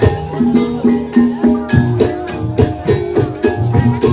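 Banyumasan gamelan music for an ebeg dance: quick, repeating struck pitched notes over steady drum strokes and rattling percussion, in an even, driving rhythm.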